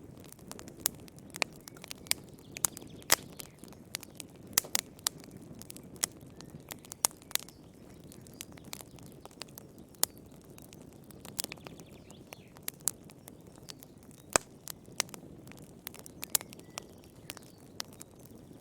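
Wood fire burning in a fireplace: irregular sharp crackles and pops over a soft steady rumble of flame.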